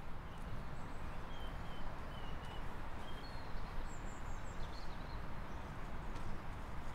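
Woodland outdoor ambience: a steady low rush with short, high bird chirps and twitters scattered through it.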